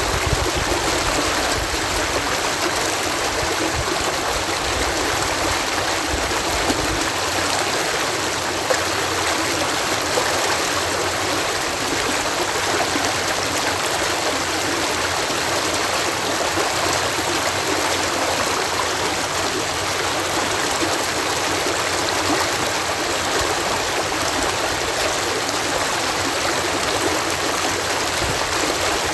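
Water pouring over a canal lock as a small waterfall, a steady rushing splash.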